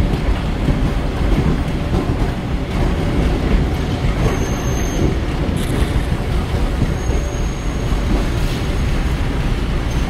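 Steady low rumble of a KA Seruni passenger carriage running along the rails, heard from on board, with faint high wheel squeal now and then.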